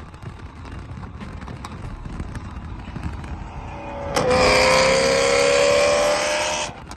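Car engine revved hard and held near the top of its rev range for about two and a half seconds, starting suddenly about four seconds in, over lower parking-lot car noise.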